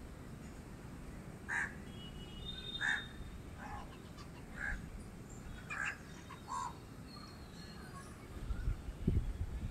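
Birds calling from the trees: a series of about six short calls, roughly one a second, with a few faint thin whistles between them. A low rumble near the end.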